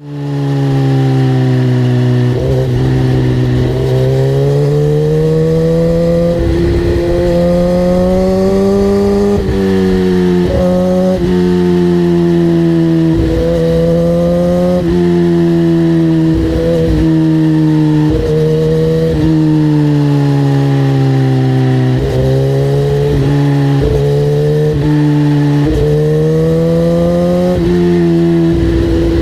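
A vehicle engine running hard and continuously, its pitch drifting slowly up and down, with occasional short low thumps.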